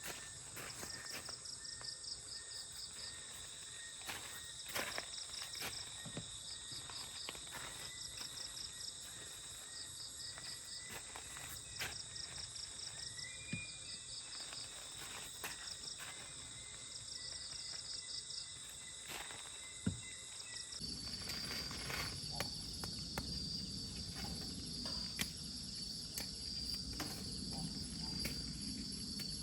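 Tropical forest insects: a steady shrill drone with a pulsed chirping call repeating about every one to two seconds, over scattered light clicks and knocks. About two-thirds of the way through the sound changes abruptly to a different single insect drone with a low rumble beneath.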